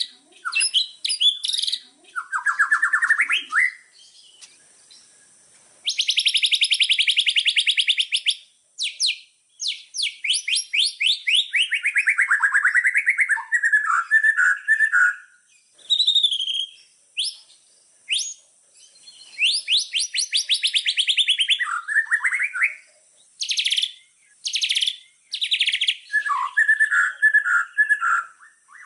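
Small songbird singing a varied song: fast rattling trills, trills that slide downward in pitch, and short chattering phrases, in bursts with brief pauses between them.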